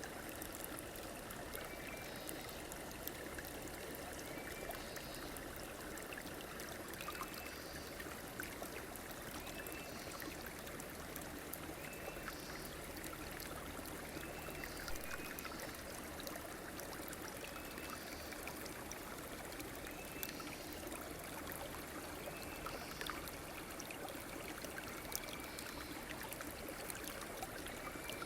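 A river or stream flowing steadily. A short, hooked call is repeated about every two seconds over the water.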